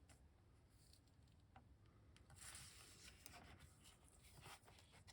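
Very faint rustling and a few light ticks from handling rolls of fabric washi tape and a paper journal, the rustling growing a little about halfway through.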